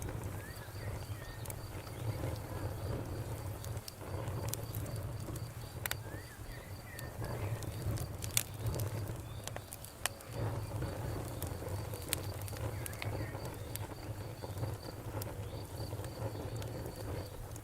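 Campfire crackling and popping over a low rumble of burning wood, with a few louder pops about eight and ten seconds in. A cricket chirps steadily in an even high pulse behind it.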